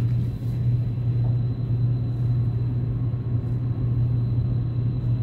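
Steady low rumble of a KTX high-speed train, heard from inside the passenger cabin as it pulls away from a station.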